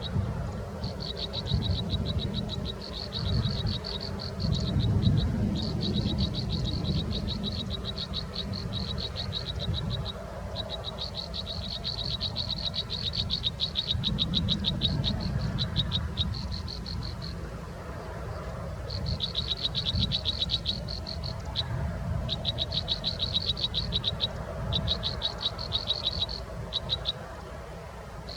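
Repeated bouts of rapid, high-pitched pulsed calls, each bout lasting one to three seconds, over a steady low rumble.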